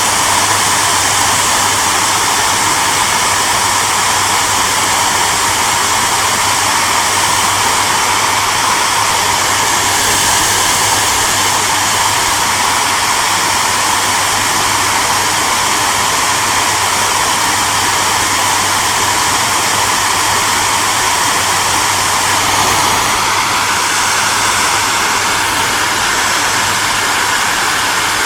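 Electric hair dryer running steadily: an even rushing of air with a low motor hum beneath it. The tone shifts slightly about two-thirds of the way through.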